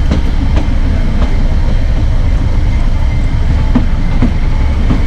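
Narrow gauge train running along the track, heard from on board: a heavy, steady rumble with repeated sharp clicks as the wheels pass over rail joints.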